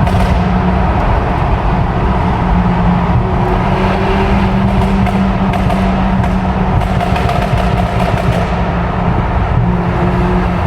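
Steady car noise, engine and road rumble with a low hum, as from a car being driven.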